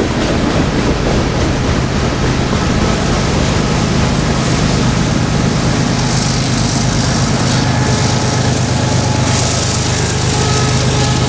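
CSX freight train rolling past, a loud steady rumble of its cars on the rails, with a few faint brief high tones.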